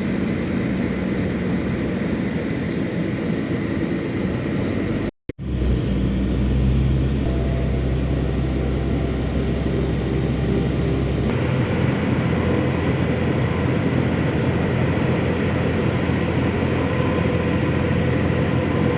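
Steady road and engine noise of a car driving. About five seconds in, the sound drops out briefly where the recording cuts, and a deep low hum then runs for several seconds.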